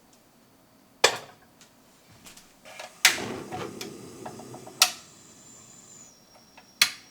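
Four sharp clicks or knocks, roughly two seconds apart, the second followed by about a second and a half of lighter clattering and small ticks.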